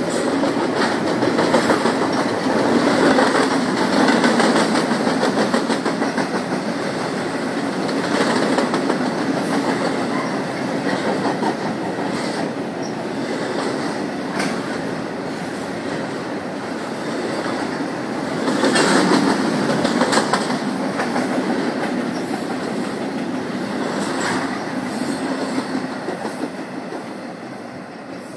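A train's cars rolling past at close range: a steady rumble with wheels clicking over rail joints, swelling every few seconds and fading near the end.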